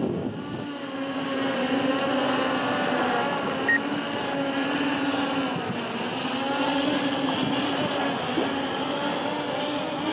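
DJI Mavic Air 2 quadcopter's propellers whining in flight, a steady hum whose pitch wavers slightly as the drone manoeuvres.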